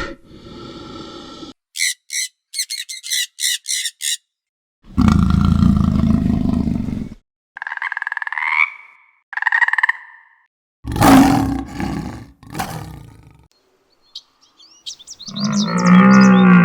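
A string of separate animal calls, one after another: a run of about eight quick high chirps, a long low roar, two short pitched calls, harsh loud cries, and another roar with bird chirps near the end.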